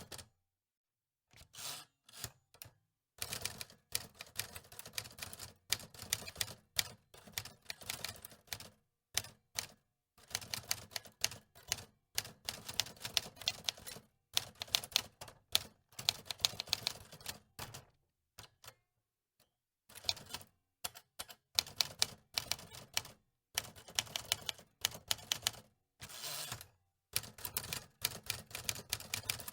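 Antique typewriter keys clacking in fast runs of strokes, broken by short pauses.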